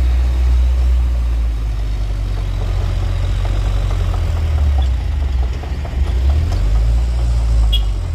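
Heavy truck engine running low and steady, with a deep, even tone.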